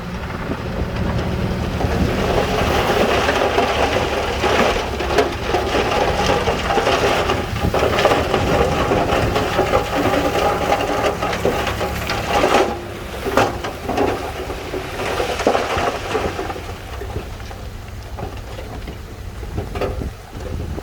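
Heavy earthmoving machinery working stone and mud: a diesel engine runs under a long, gritty, crackling rumble that swells about two seconds in and eases off near the end.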